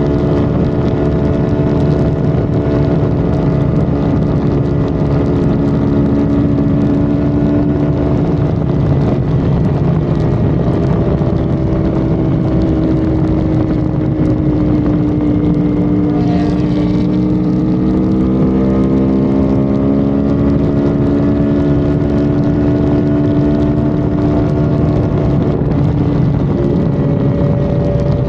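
Honda Civic FD's engine running at steady highway speed under road noise, its pitch easing down a little past the middle and then climbing again. A short rushing sound comes just past halfway.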